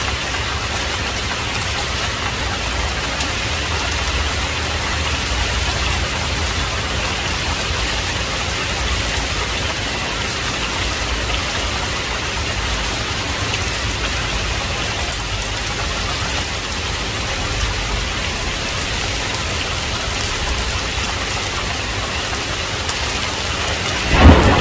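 Heavy rain falling steadily, an even hiss of downpour. Right at the end a sudden loud crack of thunder breaks in.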